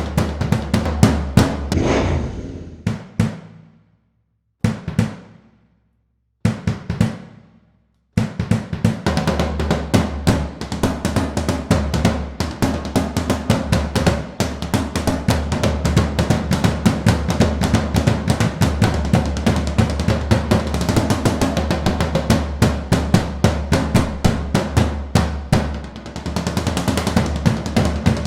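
Royal Enfield Continental GT 650's 648 cc parallel-twin engine running loud through an Emgo cafe muffler with no dB killer, a rapid train of exhaust pulses. After about three seconds it fades out, three short bursts follow, each cut off sharply, and at about eight seconds it picks up again and runs steadily.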